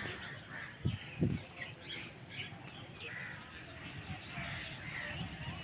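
Birds calling repeatedly, with two dull low thumps close together about a second in.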